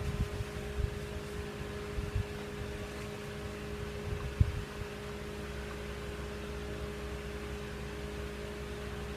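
Steady mechanical hum with a faint hiss, with a few soft low knocks, the loudest about four and a half seconds in.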